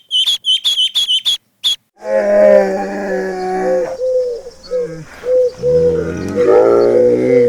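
A small bird chirping rapidly, about four high chirps a second. After a cut about two seconds in, birds cooing in low, wavering calls that overlap.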